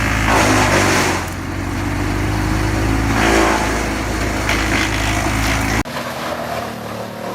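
Vermeer BC700XL compact wood chipper's engine running steadily, with surges of noise as branches are fed and chipped: once just after the start and again around three seconds in. About six seconds in the sound cuts abruptly to a quieter, different machine.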